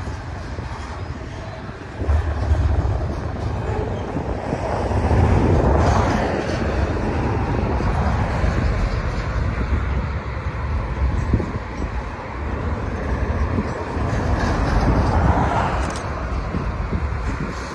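BNSF double-stack intermodal well cars rolling past as the train pulls out of a siding: a steady rumble and clatter of steel wheels on rail that swells twice as cars go by.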